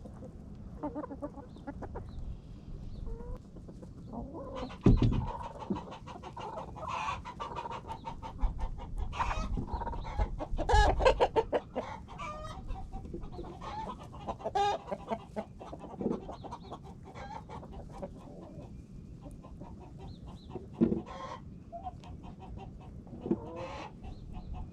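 A flock of chickens clucking as they eat kitchen scraps, with short calls coming thickest in the first half and scattered sharp clicks in between.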